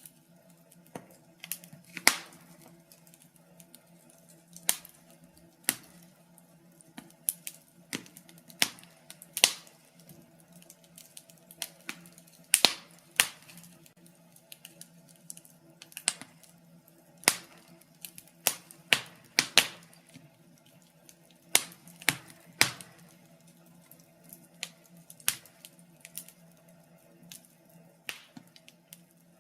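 Wood fire in a fireplace crackling: irregular sharp pops and snaps, a few loud ones among many softer ticks, over a faint steady low hum.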